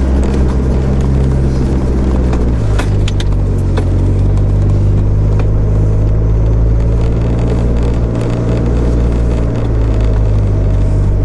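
A four-wheel drive's engine running steadily on a gravel track, heard from inside the cab, with scattered knocks and rattles. The engine note shifts about two and a half seconds in.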